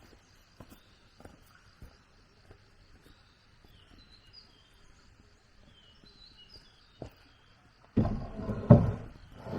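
Faint bird chirps with scattered light clicks and a single knock, then about eight seconds in a louder stretch of heavy thumps and noise from outdoor building work.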